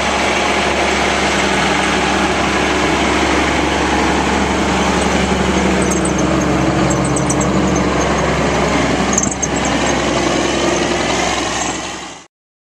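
Old Autocar wrecker truck's engine running steadily as the truck drives, with a few faint high clicks around the middle. The sound cuts off abruptly near the end.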